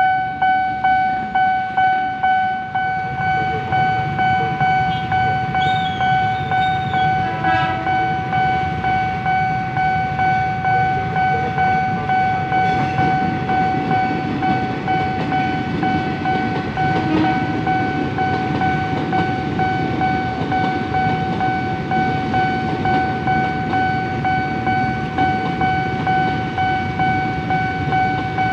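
Level-crossing warning bell ringing on and on, about two strokes a second, over a low rumble that strengthens about three seconds in.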